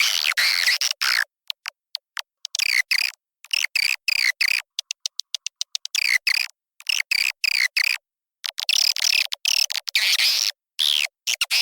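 Recorded swiftlet calls played as a swiftlet-house lure sound: bursts of harsh, chattering twitters about half a second to a second and a half long, alternating with runs of rapid dry clicks. The track has nothing in its low end.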